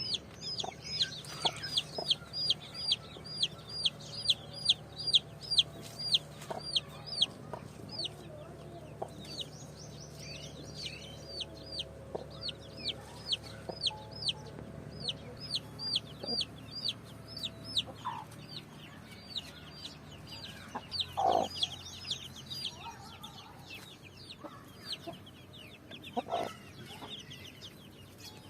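Chicks peeping in a long run of high, short, falling chirps, about three a second, thinning out in the second half. A few lower calls, typical of the mother hen clucking, come in later.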